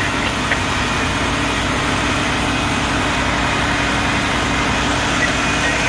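A heavy vehicle engine idling: a steady low rumble with a constant hum.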